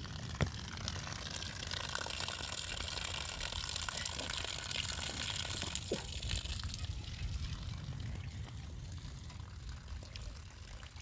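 Water pouring in a steady stream, with two light knocks: one about half a second in and one about six seconds in.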